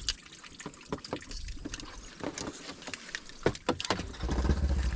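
Water trickling and dripping with scattered clicks and knocks, then an off-road vehicle's engine running low and steady from about four seconds in.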